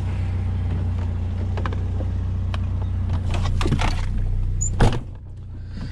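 Vehicle engine running with a steady low hum, with a few light clicks and one loud sharp knock near the end.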